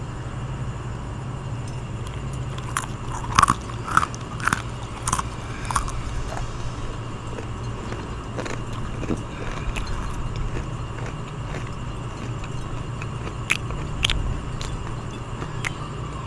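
A person wearing full dentures chewing and biting food close to the microphone. There is a flurry of crisp, clicking bites a few seconds in and a few more near the end, over a steady low hum.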